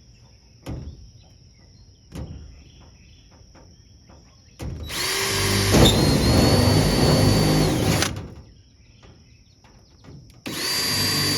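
Power drill running in two bursts, drilling holes during body panel work: a steady motor whine that spins up, holds for about three and a half seconds and winds down, then starts again near the end. A couple of light knocks come before it.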